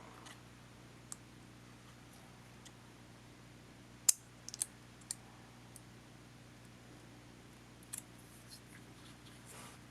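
Scattered small clicks and taps of tools and small camcorder parts being handled during disassembly. A sharp click about four seconds in, a few quicker ones right after, and another near the eight-second mark, over a faint steady hum.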